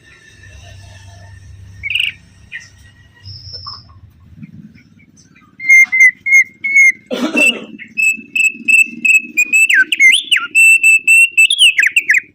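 Caged songbird singing: a few faint chirps, then a loud, fast run of repeated whistled notes in rapid trills, with rising and falling slurs near the end. A short rough burst of noise cuts in about seven seconds in.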